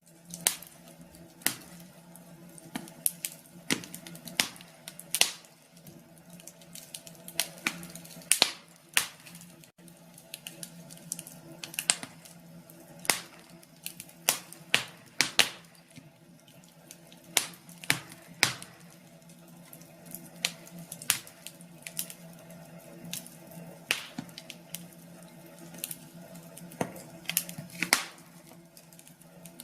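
Wood fire crackling: burning logs give irregular sharp pops and snaps, a few every couple of seconds, over a faint steady hum.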